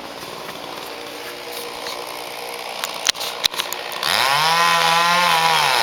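Chainsaw running faintly at first, with a few clicks, then revved up loud about four seconds in, its engine pitch rising and falling.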